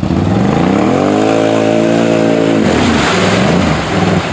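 ATV engine revving up over about a second, held at high revs for about a second and a half, then dropping back suddenly with a short burst of hiss.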